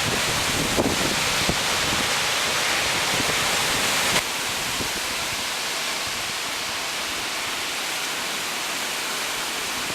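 Heavy rain pouring down in a thunderstorm: a steady rushing hiss that drops a little in loudness about four seconds in.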